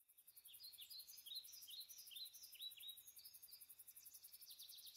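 Faint outdoor field ambience: a small bird giving a quick series of short chirps over the first few seconds, over a high, fast, even pulsing.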